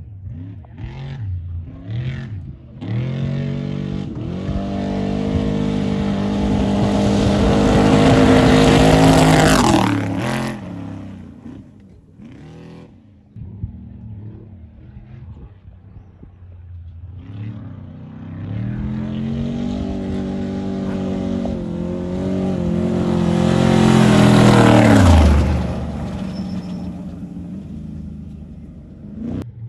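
Off-road desert race trucks passing at speed, twice: each engine grows louder on approach and its pitch drops sharply as it goes by, about ten seconds in and again about twenty-five seconds in. A few short revs near the start.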